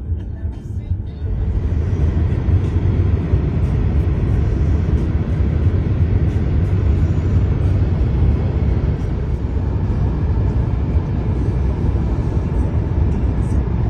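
Car driving on the road: a steady low rumble of road and engine noise that grows a little louder about a second and a half in.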